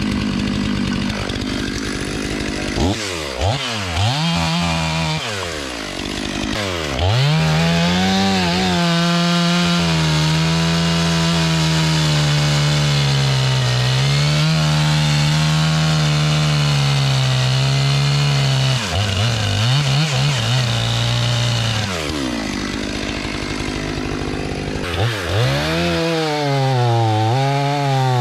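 Stihl MS 500i chainsaw, a fuel-injected two-stroke, blipped up and down several times, then held at full throttle for about ten seconds with its pitch wavering as it cuts through a log, then blipped again near the end.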